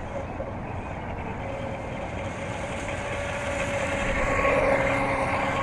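DJI Mavic Mini quadcopter's propellers whining at a steady pitch over wind hiss, getting louder about four seconds in as it flies closer, with a second, lower tone rising near the end.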